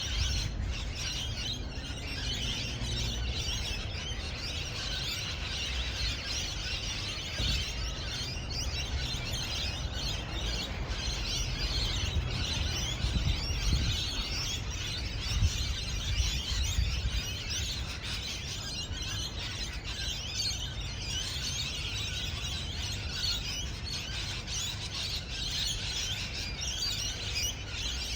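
A group of parrots chattering and chirping continuously, many quick high calls overlapping, over a steady low rumble.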